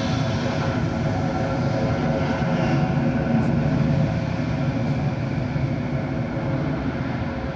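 Jet airliner engines running steadily: a whine of several steady tones over a rushing noise, swelling slightly a few seconds in.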